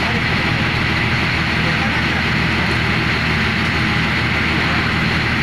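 Heavy engine running steadily at an even speed, with a low, constant hum.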